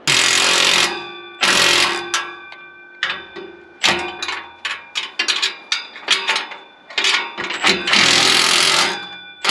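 Cordless impact wrench hammering bolts tight in three bursts of a second or so, with metallic ringing from the work, and short clicks and clanks of parts and tools between the bursts.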